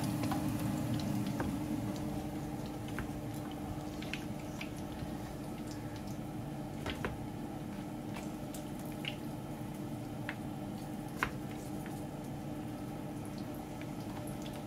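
Chicken taquitos frying in oil over low heat: scattered, irregular pops and crackles over a steady low hum, with one sharper pop about 11 seconds in.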